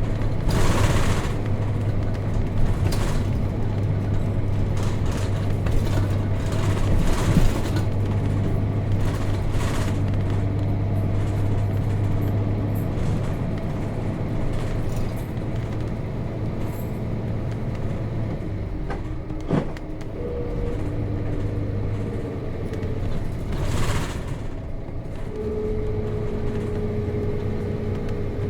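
Nissan Diesel KC-RM211GSN bus with its FE6 inline-six diesel engine running steadily on the move, heard from inside the cabin, with short rushes of air or road noise now and then. About three quarters of the way through, the engine note changes and eases off.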